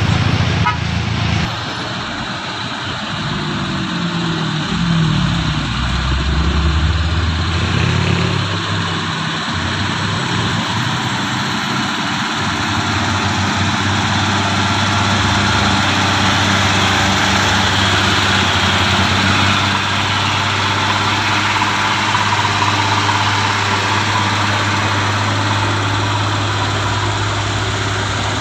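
Heavy truck's diesel engine running: its pitch rises and falls over the first several seconds, then holds steady with a strong low hum.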